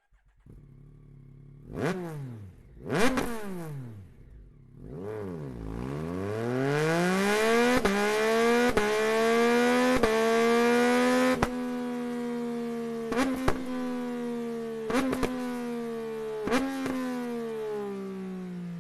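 Yamaha MT-09 three-cylinder engine breathing through an Akrapovic full-system exhaust, blipped twice sharply, then revved up and held at high revs with repeated sharp pops and cracks from the exhaust, the revs easing off near the end.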